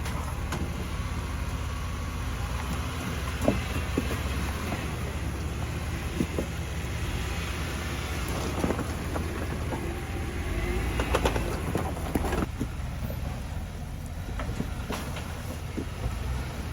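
Off-road Jeep engine running low and steady in the rain, with rain noise and scattered light knocks.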